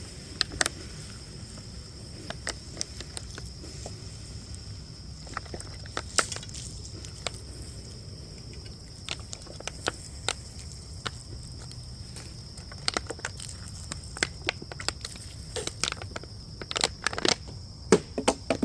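Campfire crackling and popping in irregular sharp snaps, more of them near the end, over the steady high drone of crickets.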